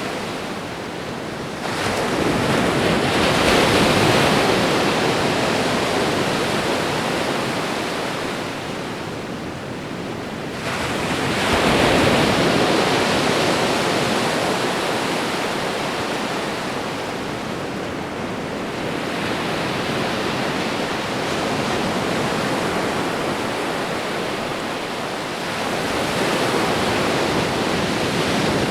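Ocean waves breaking and washing on a shore, a steady rush that swells with each wave, the biggest breaks a few seconds in and about twelve seconds in.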